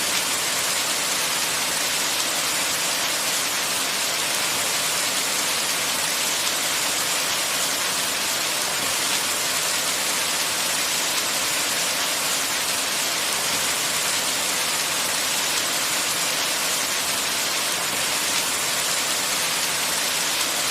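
Steady rain falling, an even hiss with no single drops standing out and no change in strength.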